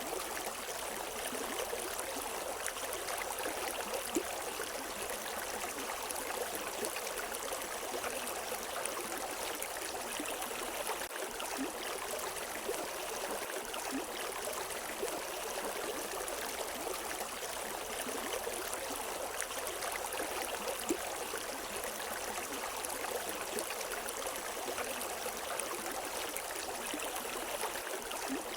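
A river flowing over rocks, a steady rushing and babbling of water with small splashes, and no birds.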